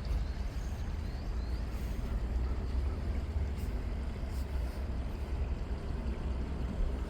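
Outdoor ambience: a steady low rumble under a wash of noise, with a few faint, short high chirps.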